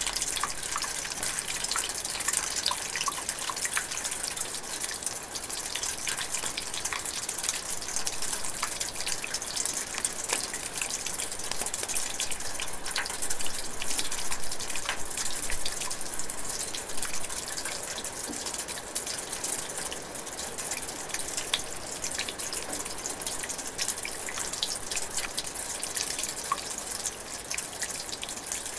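Light steady rain, a continuous high hiss with many separate drops ticking close by.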